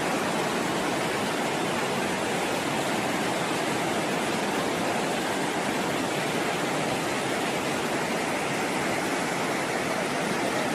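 Steady rushing of a swollen, flooded river, an even roar of water without a break.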